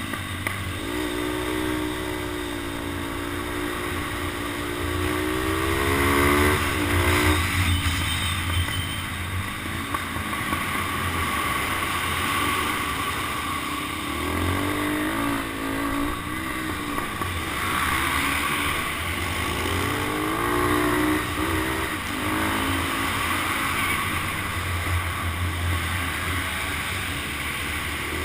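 Motorcycle engine accelerating and backing off again and again, its pitch climbing and dropping several times, heard from a helmet-mounted camera with a steady low wind rumble.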